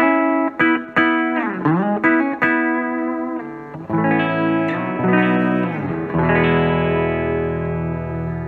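Electric guitar on its bridge humbucker pickup (a Humble Pickups Fat Bottom) played through a Fender Vibrolux Reverb amp. It plays single picked notes with one note dipped in pitch and brought back, then chords, ending on a chord left to ring.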